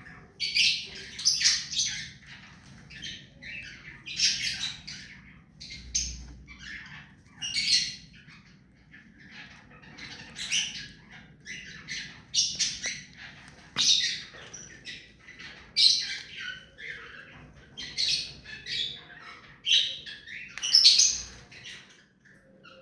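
Ring-necked parrot squawking and chirping in short, shrill, repeated calls, about one every second or two, falling quiet near the end.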